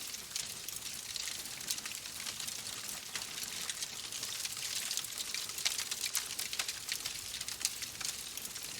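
Wood fire crackling in a fireplace: a steady soft hiss full of irregular small sharp pops and snaps.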